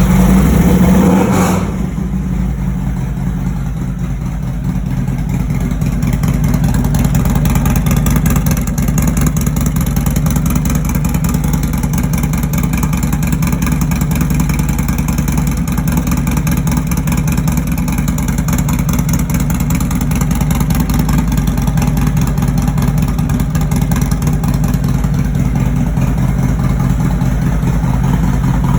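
Harley-Davidson Milwaukee-Eight V-twin fitted with a Feuling 521 cam and D&D exhaust, running. It is louder for the first second and a half, then settles into a steady idle.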